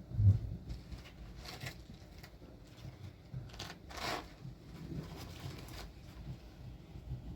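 A dull thump just after the start, then short rustling or scraping handling noises several times, the strongest about four seconds in.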